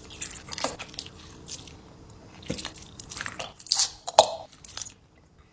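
Close-miked eating: someone biting into and chewing a gold durian, with irregular wet smacks and mouth clicks that stop about five seconds in.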